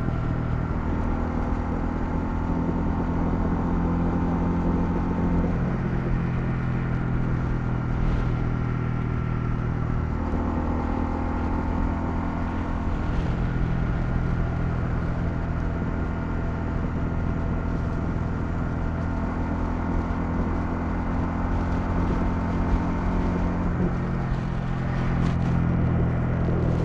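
Honda CL250 single-cylinder engine running steadily while riding, its note changing pitch about five seconds in, again about ten seconds in, and near the end as engine speed changes.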